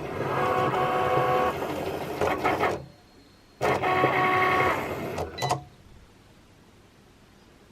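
A small electric motor whirring in two bursts, the first about three seconds long and the second about two seconds, with a short pause between them.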